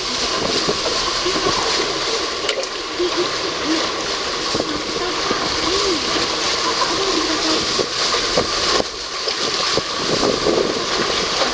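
Small fishing boat under way in rough, wind-driven water: continuous splashing and rushing of water and wind over the hull, with a steady engine hum underneath.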